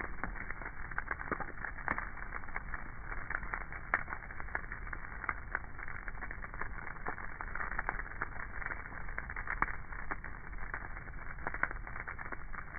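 Campfire burning, with irregular crackles and pops over a steady hiss.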